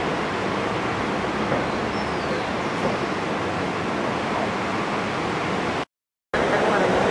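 Steady rush of a waterfall or fast-flowing water. It cuts out for about half a second near the end, then resumes slightly louder.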